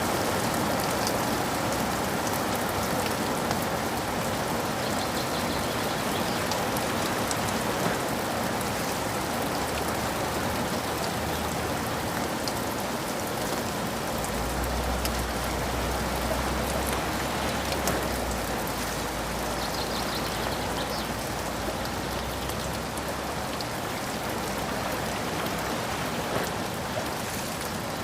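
Steady rain falling with a dense patter of drops. About halfway through, a soft low rumble of distant thunder lasts several seconds.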